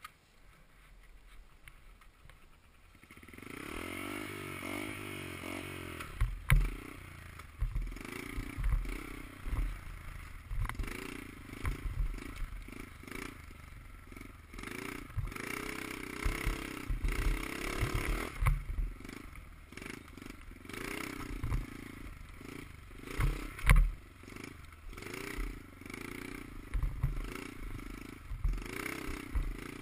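Dirt bike engine running and revving up and down over and over, as on a ride, coming in about three seconds in. Frequent sudden thumps and rattles sound through the engine noise.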